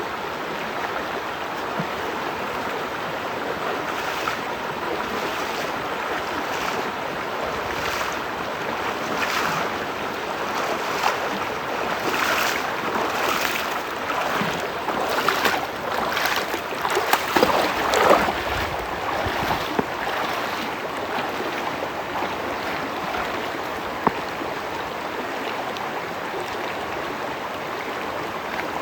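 Steady rush of water, with a stretch of splashing in the middle that is loudest about two-thirds of the way through.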